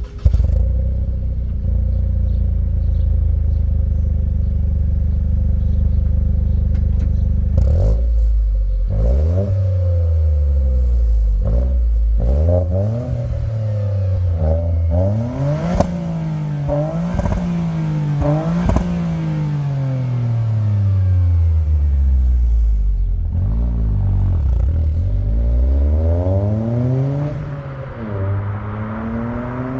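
Toyota GR Corolla's turbocharged three-cylinder engine through an HKS Legamax aftermarket exhaust. It comes in suddenly and runs at a steady idle, then is revved again and again, the deep note rising and falling with each blip. It settles back to idle near the end.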